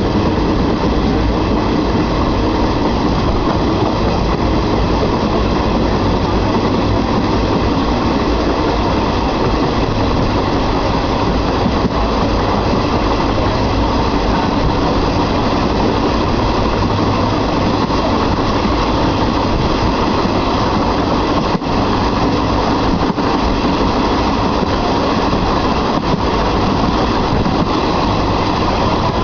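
Steady running noise of a moving passenger train heard from on board: wheels on the rails and the rush of air, loud and unbroken.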